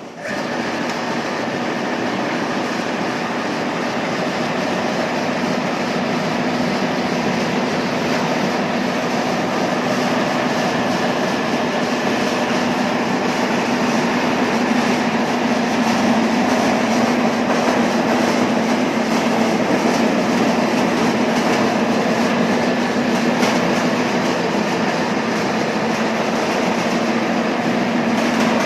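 Pepper threshing machine running steadily: a constant hum under a dense, continuous rattle, growing a little louder about halfway through.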